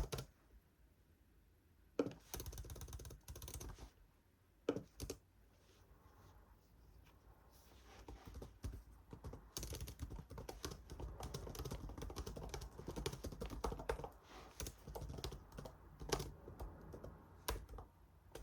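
Typing on a computer keyboard in bursts of rapid key clicks, with a pause of a few seconds before a longer run of typing.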